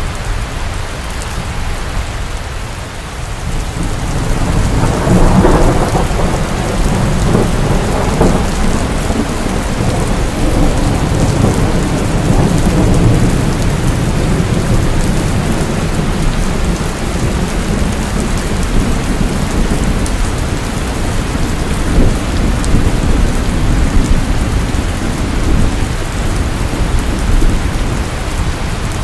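Steady heavy rain with thunder: a deep rumble builds about four seconds in and rolls on under the rain.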